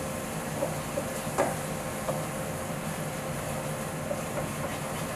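Onion, garlic, ginger and curry spices cooking in a pan with a steady sizzle. A few light knocks of a wooden spoon against the pan come as the mixture is stirred.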